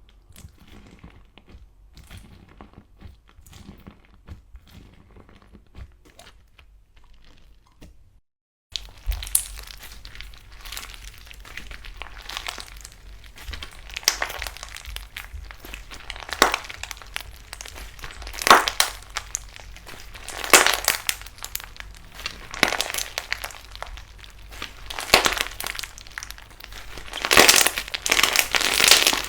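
Slime being squeezed and pressed by hand, giving dense crinkling, crackling pops. Faint at first; after a brief break about eight and a half seconds in, the crackles turn much louder and sharper and build toward the end.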